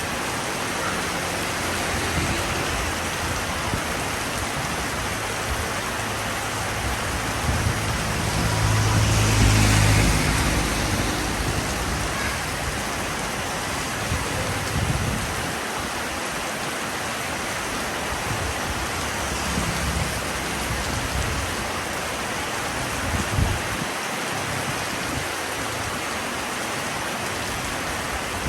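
Steady rain falling, an even hiss of drops, with a low rumble that swells and fades about a third of the way through and a few soft low thuds later on.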